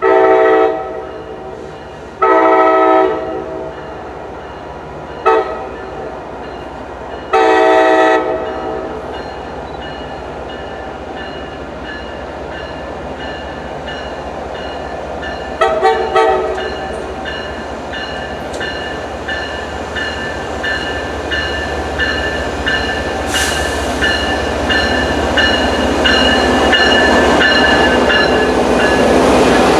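MBTA commuter train's locomotive horn sounds the grade-crossing pattern of long, long, short, long, a multi-note chord, then gives another short blast about halfway through. The train then approaches, running louder and louder, with its wheels clicking over the rail joints.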